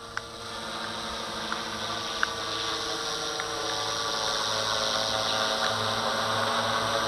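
Walkera V450D01 electric RC helicopter in flight: its motor and spinning rotor blades make a steady whine and buzz that grows louder over the first few seconds.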